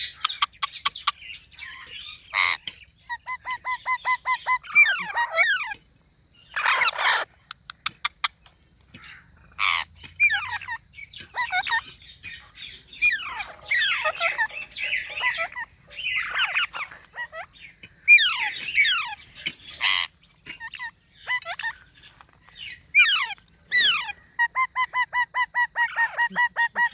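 Pet green parrots calling: a string of squawks, harsh screeches and sweeping whistles, with bursts of fast, evenly repeated whistled notes a few seconds in and again near the end.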